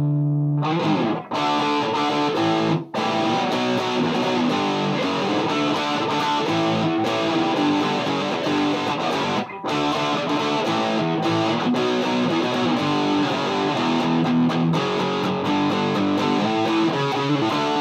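Gibson Les Paul through a Mesa/Boogie Dual Rectifier and a Marshall 1960A 4x12 cabinet, high-gain distorted, with the amp at 100 watts on tube rectification. A held chord rings, then about a second in a fast chugging riff runs on, with brief stops near one, three and ten seconds in.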